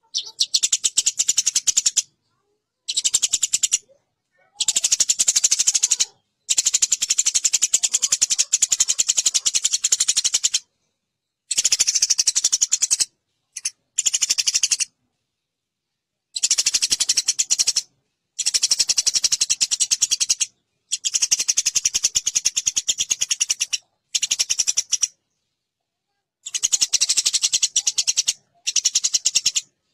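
Eurasian tree sparrows chattering while fighting: rapid, dense, harsh chirping in bursts of one to four seconds, broken by short complete silences.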